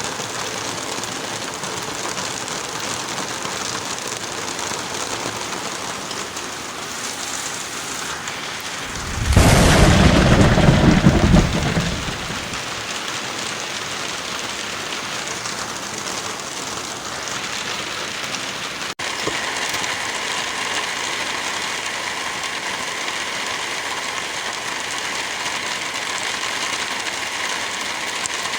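Heavy rain falling steadily, with a loud rumbling thunderclap lasting about three seconds, starting about nine seconds in. About two-thirds of the way through there is a brief break, and the rain's sound changes slightly in character.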